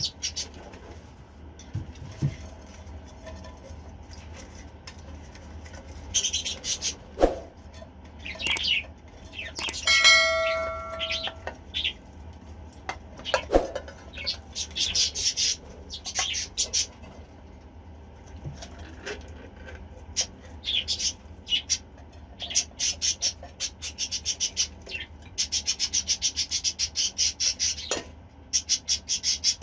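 Budgies chirping and chattering in scattered high calls, turning into fast runs of clicks near the end. A short ringing tone sounds about ten seconds in.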